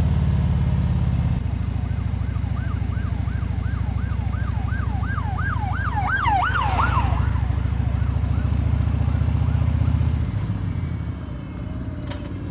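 An emergency-vehicle siren sweeping rapidly up and down, about two to three sweeps a second, growing louder to a peak about six to seven seconds in and then fading out. Underneath it runs the steady low drone of a Harley-Davidson touring motorcycle's V-twin at cruising speed, which eases off near the end.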